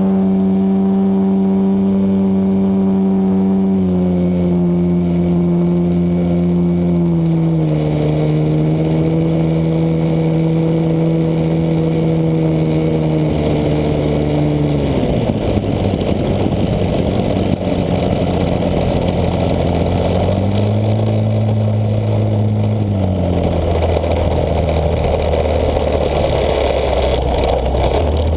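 The DA-100 twin-cylinder two-stroke gas engine of an RC Extra 260 aerobatic plane, heard from on board. It runs at high throttle with its pitch stepping down twice, then is throttled back to a low idle about halfway, with air rushing past. It picks up briefly a few seconds later, then drops back, and rises again at the very end.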